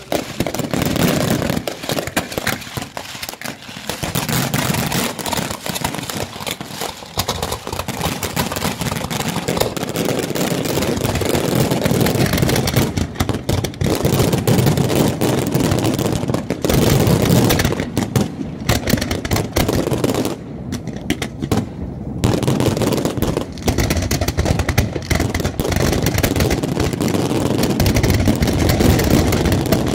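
A dense, continuous barrage of aerial fireworks: shell bursts and crackling going off in rapid succession, with a low rumble of booms underneath and a brief slackening about two-thirds through.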